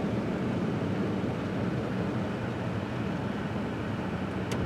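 Steady low hum of an idling car, with a short click near the end.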